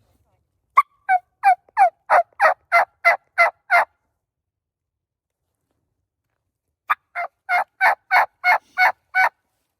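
Turkey call worked by a hunter, giving two runs of about ten evenly spaced yelps, about three a second, with a few seconds of silence between them, to draw a gobbler in.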